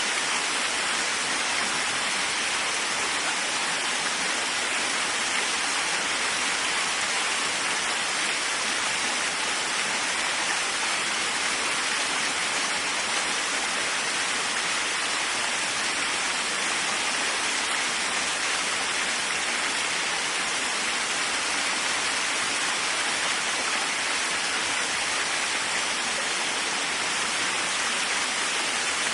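Waterfall: falling water rushing with a steady, even hiss that does not change.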